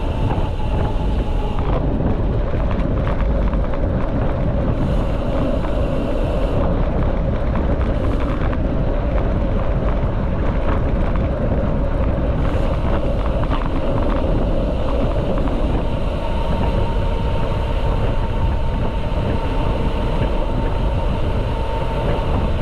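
Steady rumbling noise of a mountain bike in motion: tyres rolling and wind buffeting the microphone, with a steady hum that fades out about two seconds in and returns near the end.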